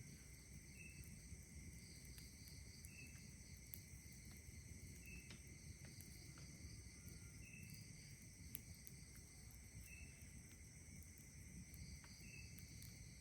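Faint night chorus of insects: several steady high-pitched trills overlapping, with one short chirp repeating every two seconds or so. Scattered faint crackles from a campfire.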